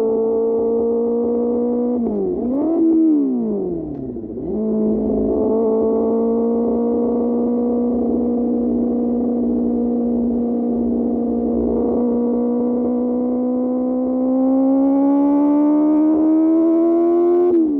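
QJ Motor SRK600 inline-four motorcycle engine through an SC-Project aftermarket exhaust, running under way. About two seconds in the revs dip, rise briefly and then fall away before settling into a steady cruise; late on the revs climb steadily and drop suddenly at the end, as at a gear change.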